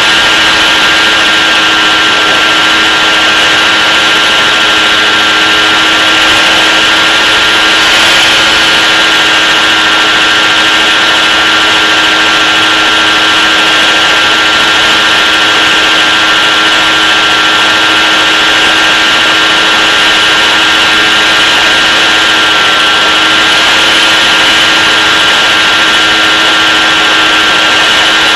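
Steady aircraft engine noise heard from on board, a constant drone of several held tones over a broad hiss, with no change in pitch or level.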